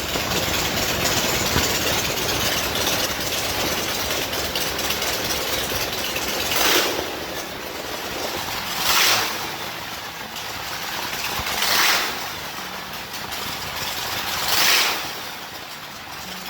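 Motorcycle V-twin engine running, an 88-inch S&S Panhead on a hardtail chopper, revved briefly four times with a steady run between the revs.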